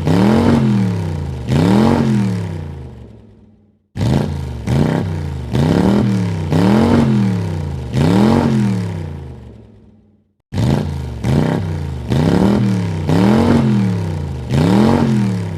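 Car engine being revved in runs of about five quick throttle blips, each rising and falling in pitch, the last dying away; after a brief silence the same run starts again, twice over.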